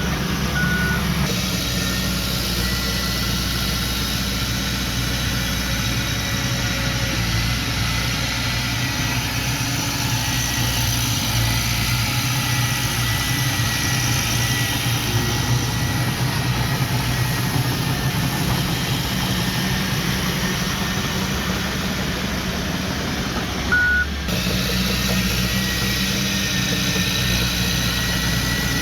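Diesel engines of heavy earthmoving machinery running steadily, with a short reversing-alarm beep right at the start and another about 24 seconds in.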